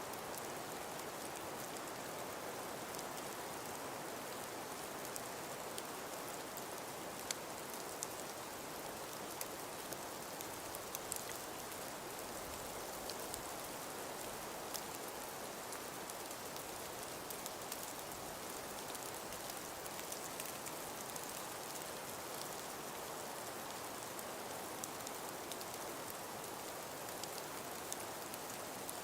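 Steady hiss of wind and falling precipitation, with scattered light ticks of it striking a surface.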